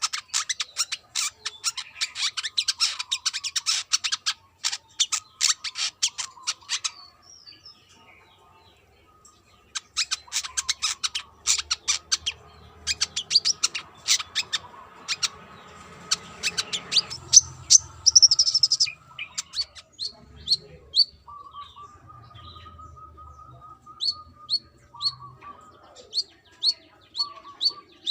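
Brown-throated sunbird calling: fast runs of sharp chipping notes, with a pause of a couple of seconds about a third of the way in. Near the end come slower, evenly spaced short high notes.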